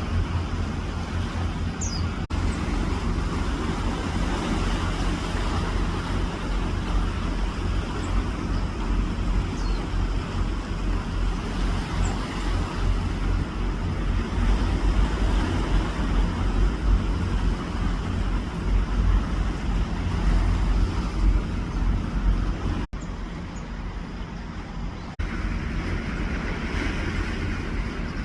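Steady road-traffic rumble with a deep low hum, and a few faint, brief high bird chirps heard over it now and then.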